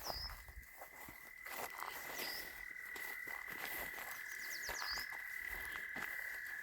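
Frogs trilling, a steady high-pitched trill that holds unbroken, with a few short bird chirps over it.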